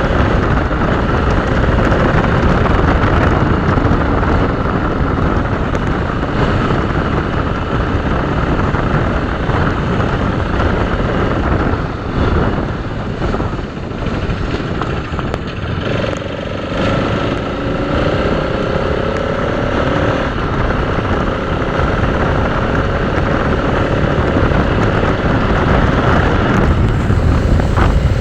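Motorcycle on the move at speed: its engine running under a loud, steady rush of wind on the microphone, with a faint steady tone joining about halfway through.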